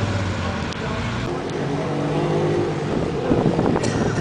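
A rally car's engine running as the car drives off, holding a steady note, with a few knocks and crackles near the end.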